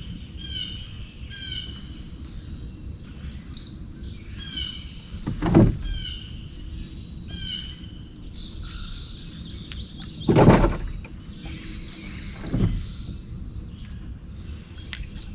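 Birds chirping over and over in short, high notes, with three brief loud noises standing out, the loudest about ten seconds in.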